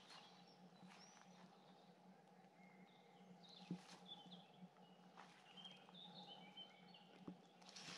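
Faint woodland birds calling: scattered short chirps and whistles over a quiet background, with a couple of soft taps.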